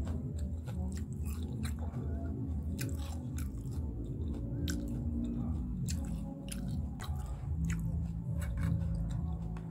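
Close-up chewing of a vegetable lumpia, with frequent crisp crackles as the wrapper is crunched between the teeth.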